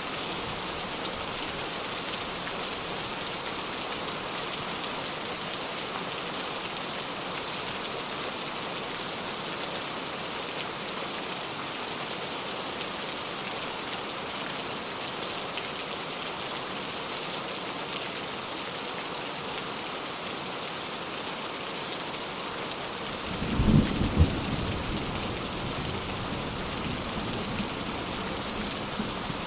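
Steady heavy rain falling, with a loud clap of thunder about 23 seconds in that rumbles on low afterwards.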